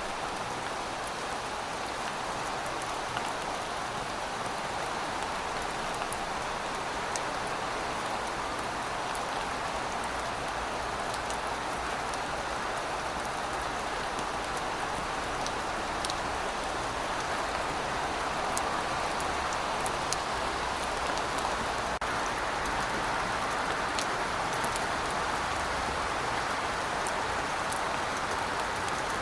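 Heavy rain falling steadily: a dense, even hiss with scattered sharper drop ticks, swelling slightly in the second half.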